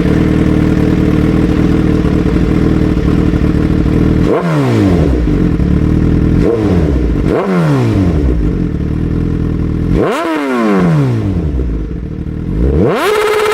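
Suzuki GSX-R 1000's inline-four engine through a Racefit aftermarket exhaust, idling steadily, then blipped four times, each rev rising sharply and dropping straight back to idle. Near the end it is revved up and held briefly at higher revs.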